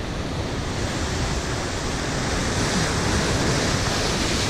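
Steady wash of ocean surf, with wind buffeting the microphone, slowly building.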